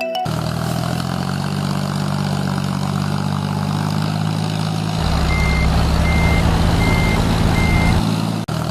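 Heavy truck engine idling steadily. Between about five and eight seconds in, the engine note gets heavier and four evenly spaced reversing beeps sound.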